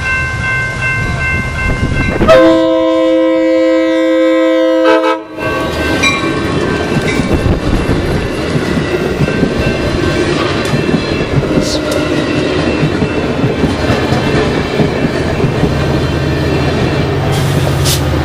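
Grade-crossing bells ringing, then about two seconds in an Amtrak Pacific Surfliner train blows a loud horn chord for about three seconds as it reaches the crossing. The bi-level cars then clatter past over the rail joints, and near the end the trailing F59PHI diesel locomotive rumbles by.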